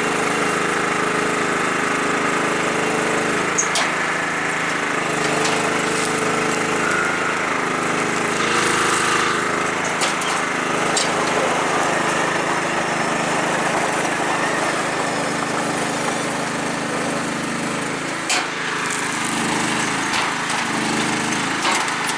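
MTD riding lawn tractor's small petrol engine running steadily, its pitch shifting slightly, with a few sharp clicks or knocks along the way.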